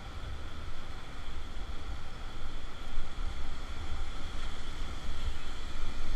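Rushing river water around an inflatable raft, with heavy wind buffeting on the microphone.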